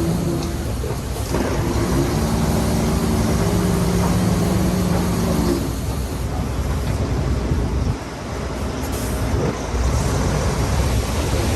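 Heavy diesel earthmoving machinery running: a steady engine hum for about five and a half seconds, giving way to a rough, noisy rumble.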